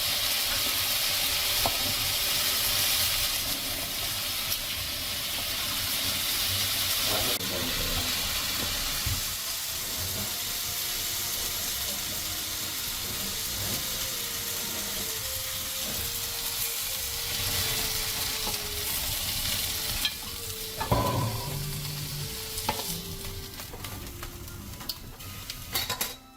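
Kebab meat frying and sizzling, a steady hiss, with a few sharp knocks now and then.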